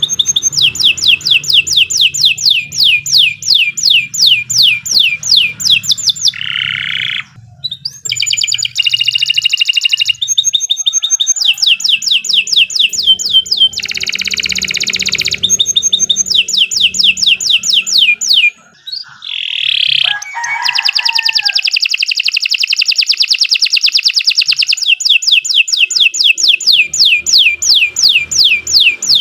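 Domestic canary singing a long song of rapid trills, each a fast run of identical high chirps. The trills are broken now and then by a short buzzy note and a brief pause.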